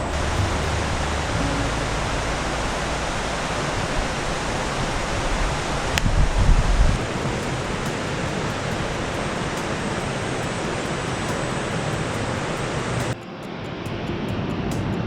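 Steady, even rush of falling water from a small waterfall. About 13 seconds in it cuts off abruptly and gives way to a quieter, duller rush.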